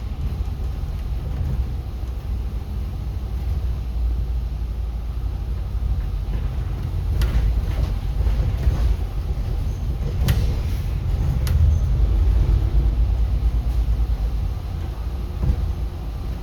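City bus rumbling low and steadily while driving, with three short sharp knocks or rattles in the middle.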